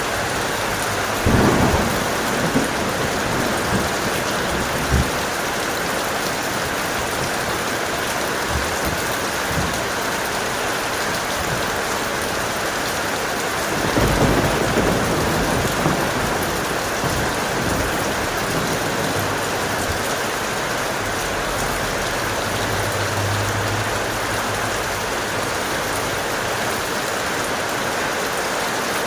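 Steady heavy rain with two claps of thunder. The first strikes sharply about a second in and rumbles for a few seconds; the second, longer rumble comes about halfway through.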